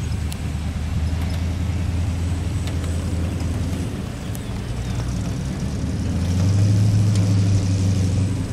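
Vintage car engine running at low speed. About six seconds in, its low hum rises in pitch and grows louder as the car speeds up.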